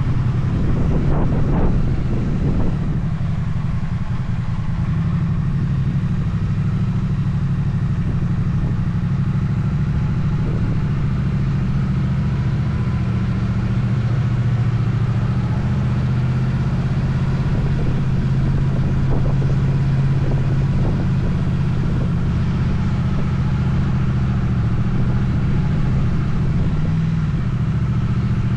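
Motorcycle engine running steadily while riding, its pitch shifting slightly with the throttle, over a haze of wind and road noise; a few rougher bursts in the first couple of seconds.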